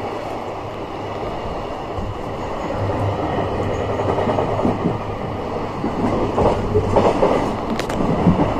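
Steady rumble of wheels running on rails, heard from inside a moving passenger train as a JR Freight train of container flatcars runs close alongside on the next track. A few sharp clicks come near the end.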